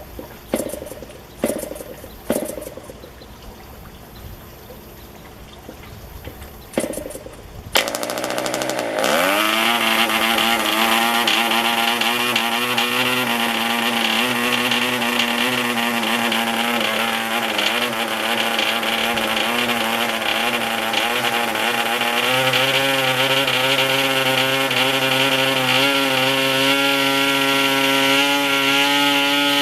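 PAW 40 two-stroke model diesel engine being started by flipping the propeller: several short coughs, then it catches about eight seconds in, rises quickly in speed and runs steadily at a high pitch.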